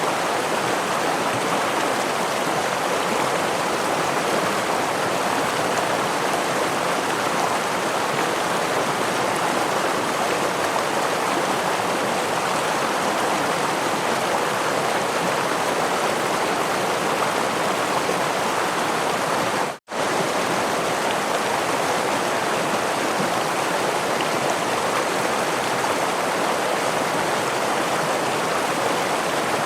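Steady rushing of a stream running over a small waterfall. The sound drops out for a split second about two-thirds of the way in, then resumes unchanged.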